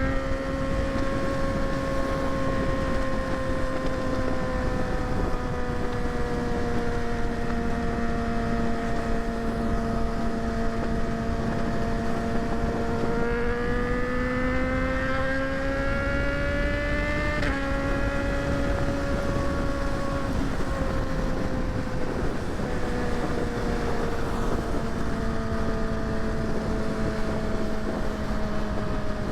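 Kawasaki ZX-6R inline-four engine running at steady cruising revs, with wind noise on the microphone. Past halfway the revs climb for a few seconds, then drop sharply as a gear changes, and settle back to an even drone.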